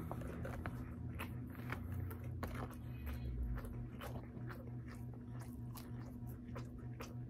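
A person chewing a mouthful of food close to the microphone, with many small mouth clicks and smacks, over a steady low hum.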